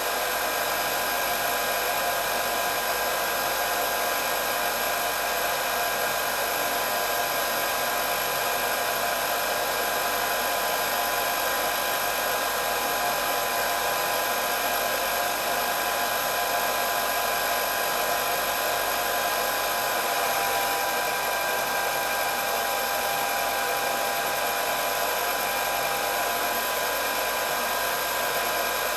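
Hair dryer running steadily: a constant rush of blown air with a high motor whine.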